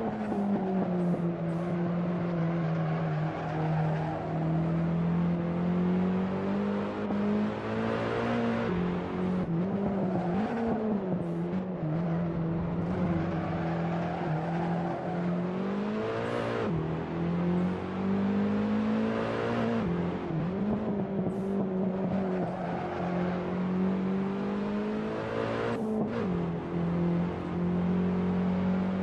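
A car engine pulling steadily under load, its note rising and falling, with several sudden drops in pitch that sound like gear changes.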